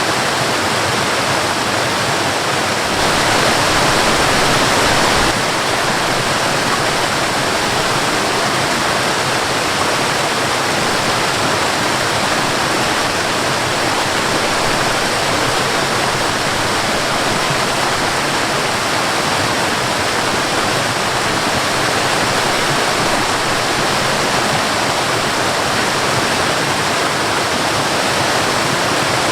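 A waterfall and stream rushing steadily in an even wash of falling water, a little louder for a couple of seconds about three seconds in.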